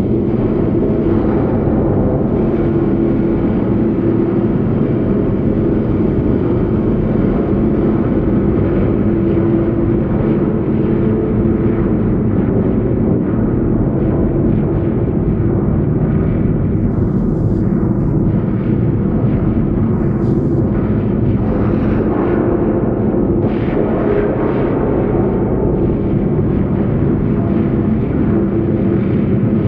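Huge metal spring bolted to a wooden beam, picked up by a contact mic inside it: a loud, continuous rumbling drone with low ringing metallic tones held within it and a few brief scratchy flecks.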